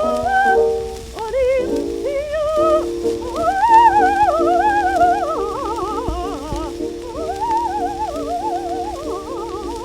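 Soprano singing a coloratura aria with wide vibrato, climbing and falling through high notes over steady held accompaniment, on an early acoustic gramophone recording. The voice breaks off briefly about a second in before the next phrase.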